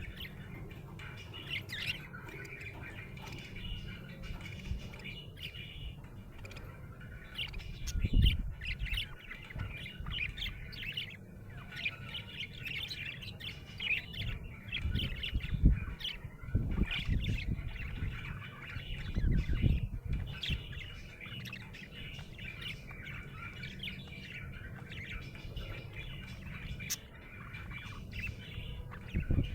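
Budgerigar chirping and squawking in quick, continuous short chirps, with a few low thuds about eight seconds in and again in the middle.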